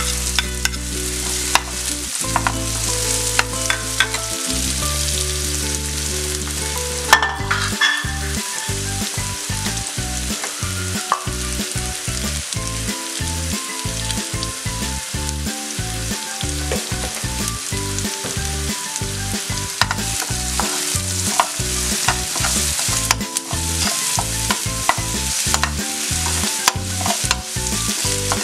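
Sliced onions and green chillies frying in oil in a nonstick pan: a steady sizzle, with a spatula stirring and scraping the pan in short strokes, one sharper knock about seven seconds in.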